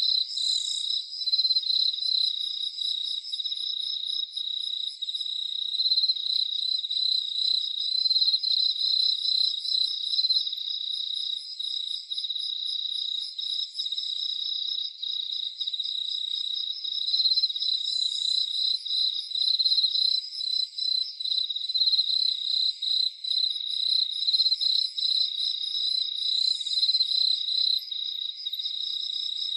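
Crickets chirping in a dense, unbroken chorus of fast pulsing trills. A fainter, higher insect trill comes and goes over it.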